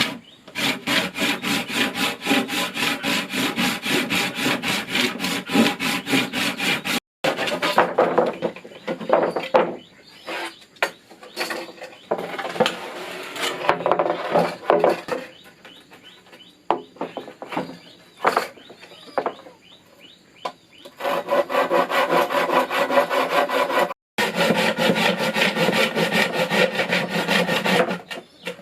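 Hand saw cutting through wood in fast, even strokes. In the middle there is a quieter stretch of irregular scraping and knocks, and then the steady strokes resume.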